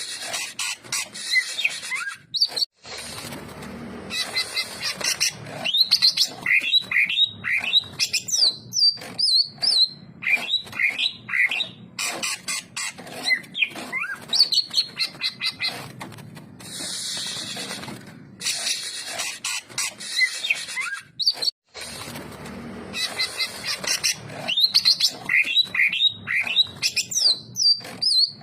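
Cucak ijo (greater green leafbird) singing a fast, varied song of quick chirps and downward-slurred whistles, in long dense phrases with a few short breaks.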